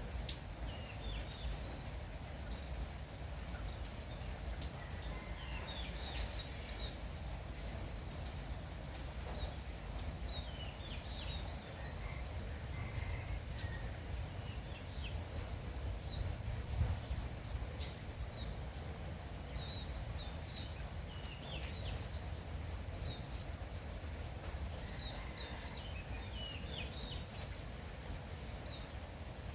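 Steady light rain, with small birds chirping in short, quick calls throughout and scattered drip-like ticks.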